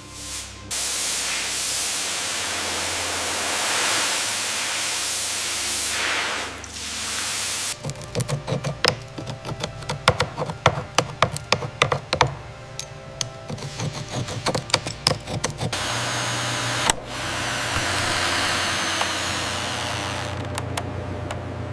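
Hand and power tools working on a wooden statue. A steady hiss runs for several seconds, then gives way to a long run of quick, irregular taps and knocks on wood, and the steady hiss returns near the end.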